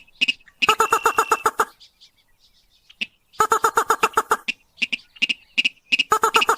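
Slaty-breasted rail calling: runs of rapid, harsh repeated notes, about eight a second, three runs in all, with single notes between them. It is a lure call meant to draw other rails in.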